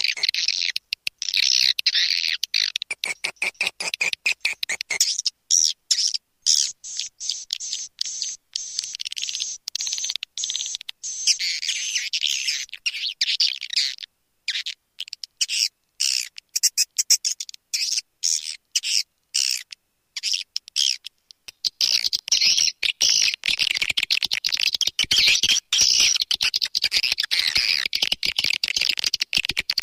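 Swiftlet lure call: a recording of edible-nest swiftlets twittering in dense, rapid, high-pitched chirps broken by short gaps. The chirping thins out about five seconds in and fills out again from about twenty-one seconds. It is the sound played at swiftlet nesting houses to attract the birds.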